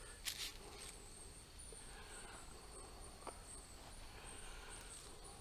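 Steady high-pitched insect chorus of crickets or cicadas in dusk rainforest, with a short crunch of footsteps on leaf litter about half a second in and a couple of faint ticks later on.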